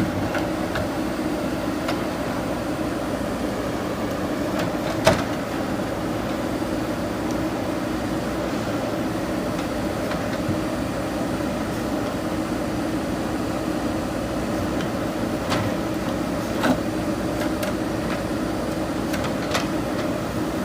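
JCB backhoe loader's diesel engine running steadily, with a few sharp knocks over it, the loudest about five seconds in and another near seventeen seconds.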